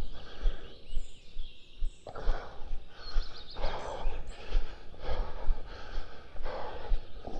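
Heavy breathing close to the microphone, one breath about every second and a half, with a faint bird chirp about three seconds in.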